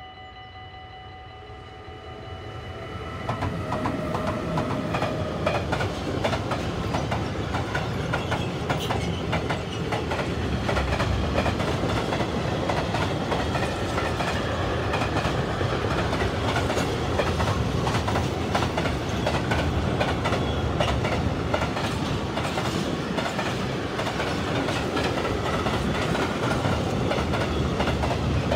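A DB Cargo mixed freight train passing close by. It starts fairly quiet with a steady high whine, grows loud about three seconds in as the locomotives arrive, then the box, tank and flat wagons roll past with a deep rolling noise and wheels clattering over the rail joints.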